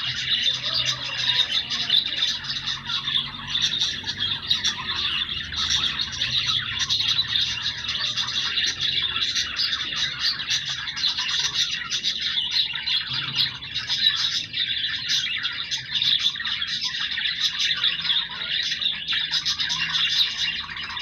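A group of budgerigars chattering and warbling without a break, a dense mix of quick chirps and squawks.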